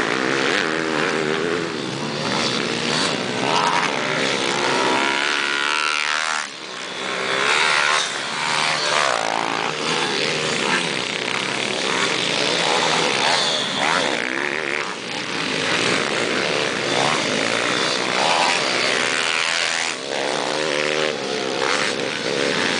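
Several pit bikes racing, their small engines revving up and down over one another as riders accelerate, brake and pass. The sound dips briefly about six and a half seconds in.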